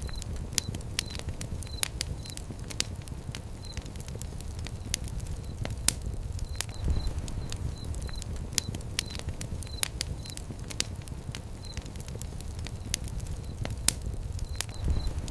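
Fire crackling: a steady low rumble of flames with frequent sharp crackles and pops.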